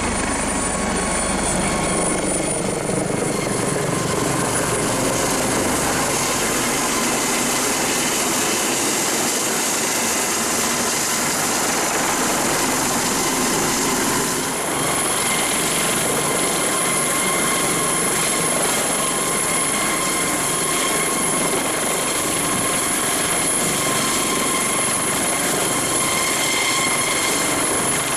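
Airbus Helicopters AS365N Dauphin running steadily, rotor noise under a high turbine whine, with a brief slight dip and a shift in the whine about halfway through.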